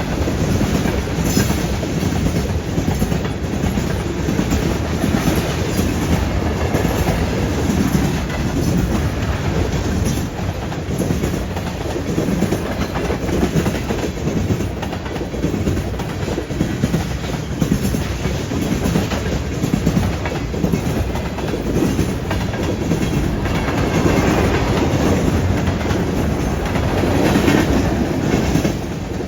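Freight train rolling past, its steel wheels clattering over rail joints and a junction switch in a steady rumble.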